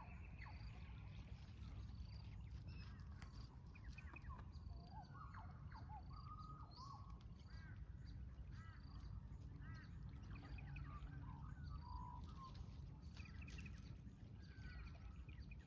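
Faint bird calls, short chirps and arched notes scattered throughout, over a steady low background rumble.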